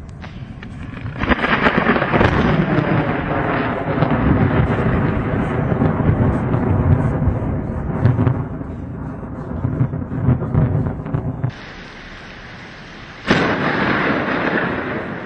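Thunder during a rainstorm: a long rolling peal that lasts about ten seconds, then a quieter stretch of steady rain, then a sudden sharp clap near the end that rumbles away.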